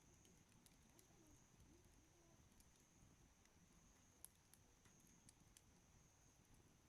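Wood campfire burning faintly, with sparse soft crackles and one louder pop about four seconds in.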